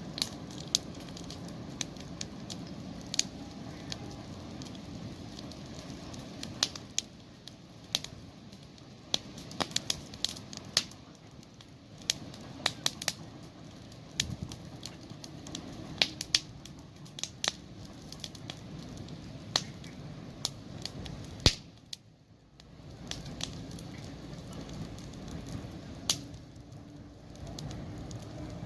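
Wood campfire crackling, with irregular sharp pops and snaps over a steady low hiss of burning. It dips briefly to near quiet about three-quarters of the way through.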